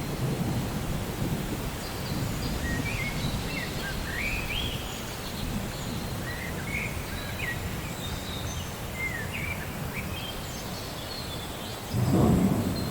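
Steady rain with a low thunder rumble, and birds chirping in short rising calls through the middle. Near the end a louder roll of thunder comes in.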